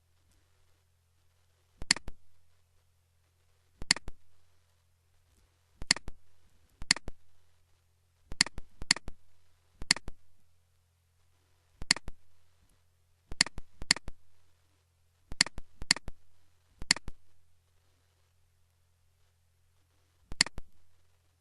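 Computer mouse clicking: about fourteen sharp single clicks spread a second or two apart, a few in quick pairs, over a faint steady low hum.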